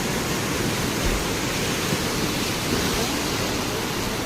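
Floodwater rushing in a steady, loud, even roar with no breaks.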